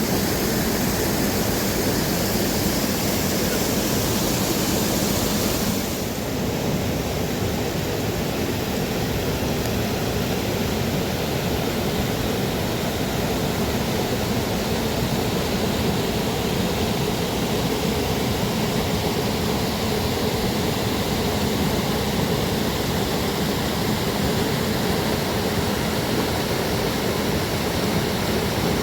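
Steady rushing of a mountain creek's water. About six seconds in, a cut takes away some of the high hiss, and the rushing carries on unchanged.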